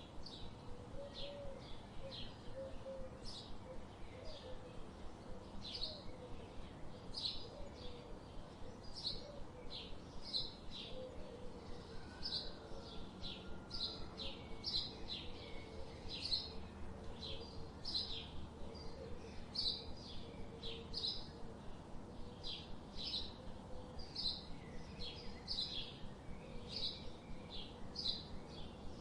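Birds chirping: short, high chirps repeated about twice a second, over a steady low background hiss.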